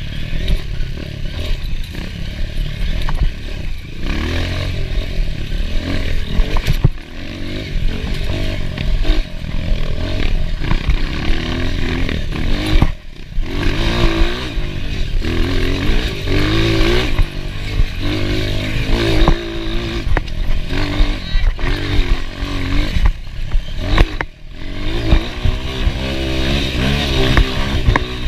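Enduro dirt bike engine revving up and down under hard riding, with brief throttle-offs every few seconds and scattered clatter.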